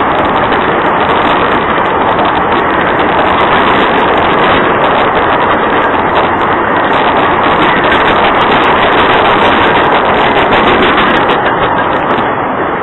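Freight train rolling past close by: a loud, steady rumble of wheels on the rails that holds level throughout.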